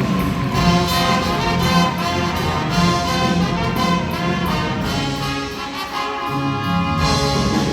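Live high school winds ensemble playing, with brass instruments prominent.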